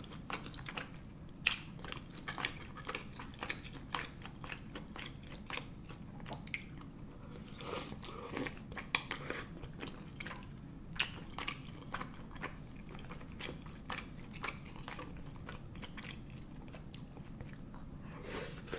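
Close-up chewing of soft, chewy Korean rice cakes in thick spicy sauce: wet mouth smacks and clicks throughout, a few sharper ones standing out.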